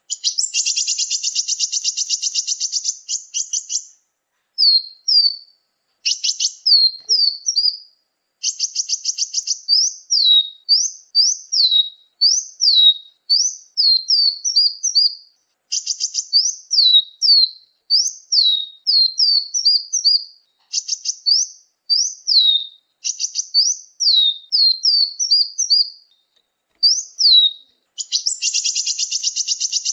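Bird-lure recording of small songbirds calling, the pikat calls of sunbirds and white-eyes: a fast, high buzzy trill opens it, then a long run of short, sharp downslurred chirps in quick groups, and the buzzy trill comes back near the end.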